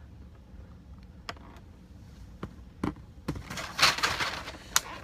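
Small plastic figure accessories and packaging being handled: a few scattered light clicks and a brief rustle about three to four seconds in.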